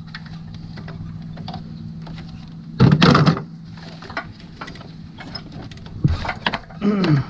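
Metal tools and engine parts being handled during timing cover removal: a loud clatter about three seconds in, then a few sharp clicks and knocks near the end, over a steady low hum.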